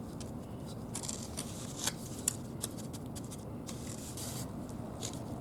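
Short scrapes and light clicks of bricks and mortar being worked by hand during bricklaying, over a steady low background noise.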